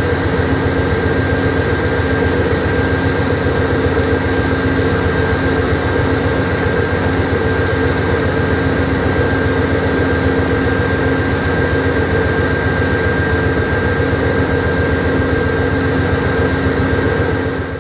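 Diesel locomotives of a freight train running past on a bridge at a distance: a steady engine drone with several held tones over a low rumble.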